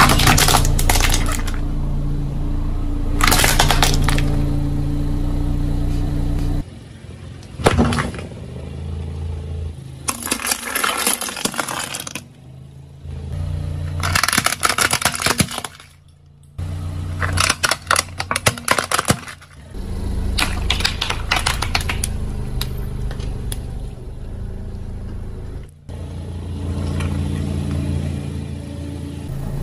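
A car's engine hums at low speed while its tyres roll over objects, crushing them with bursts of crackling and crunching. This happens over several separate clips, with abrupt changes between them.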